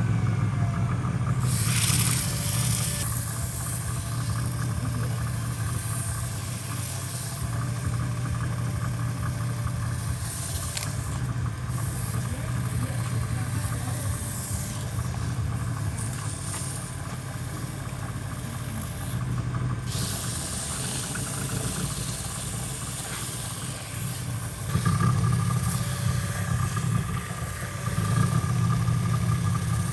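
A machine motor running steadily, louder from about 25 seconds in.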